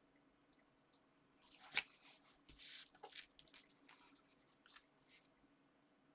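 Faint handling of paper and card: a sharp tap a little under two seconds in, then a short rustle and a few light clicks and scrapes.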